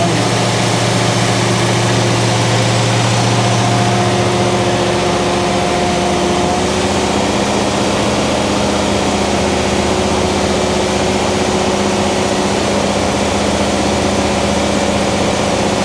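Freshly built 402 big-block Chevrolet V8 running on its first start-up. Its speed drops about four to five seconds in, and it then settles into steady, lower running.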